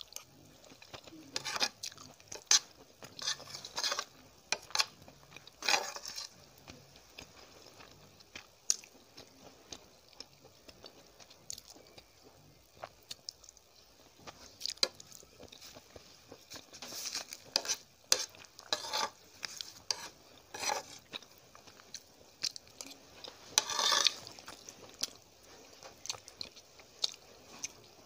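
Close-miked eating of Maggi instant noodles: irregular wet chewing, with a metal spoon now and then clicking and scraping on the plate.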